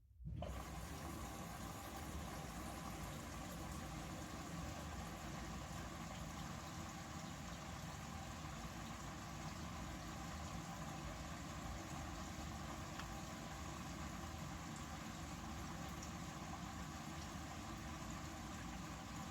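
Bosch Series 6 front-loading washing machine running its main wash: a steady motor hum with a faint even whir on top and no changes in pace. It cuts in suddenly right at the start.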